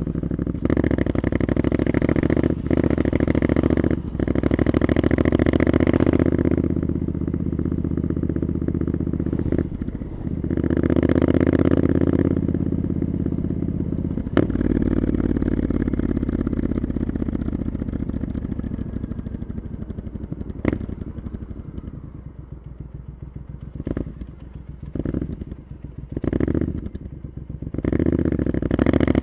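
Triumph Scrambler 900's parallel-twin engine through Arrow exhaust pipes, heard from the rider's seat. It pulls hard through the gears with short dips at the shifts, then eases off and runs low and quiet for a while before picking up again near the end.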